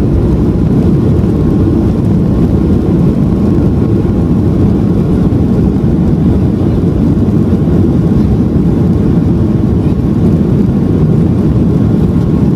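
Steady, loud cabin noise inside a Boeing 737 MAX 8 in flight: a deep, even rumble of the engines and rushing air, with no breaks or changes.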